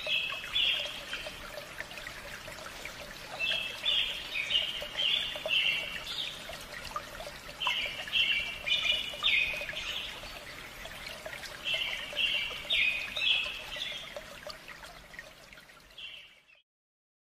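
A songbird singing in short bouts of quick, repeated high notes, about four bouts a few seconds apart, over a steady background hiss like running water. The sound cuts off suddenly near the end.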